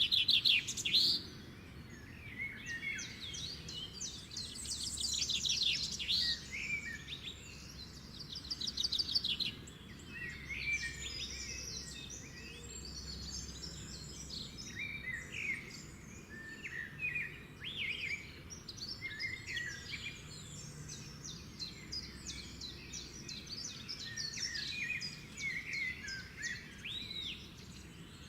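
Several birds singing and calling at once: a busy chorus of chirps, rapid trills and short whistles overlapping throughout.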